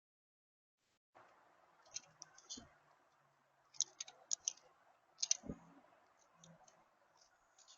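Irregular sharp clicks and taps, some in quick runs, with two dull thumps, over a faint hiss that comes in about a second in.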